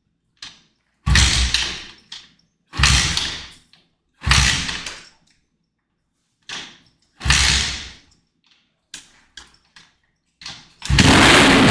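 Dirt bike being kick-started: four hard kicks, each a sudden thud that dies away within a second without the engine catching, with lighter knocks between. About a second before the end the engine fires and keeps running loudly.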